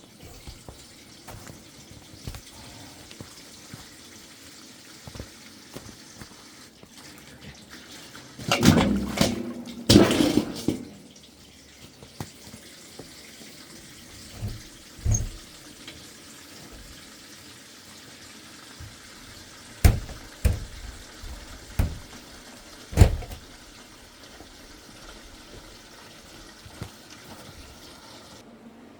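Water running steadily, with a loud spell of clattering about eight to eleven seconds in and several sharp knocks later on.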